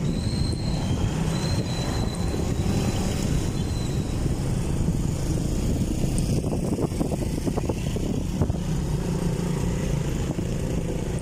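Steady low drone of a motorcycle under way, mixed with wind rushing over the microphone.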